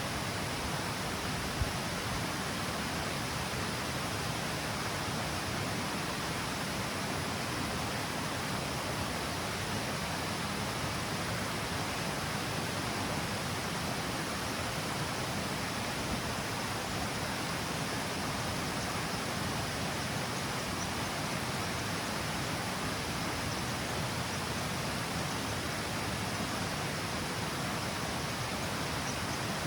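Water pouring steadily over the stepped cascade of a river: an even, unbroken rush of falling water.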